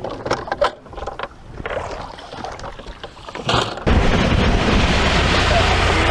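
A few scattered knocks, then about four seconds in a sudden loud rush of heavy rain and wind with a deep rumble underneath, from a thunderstorm.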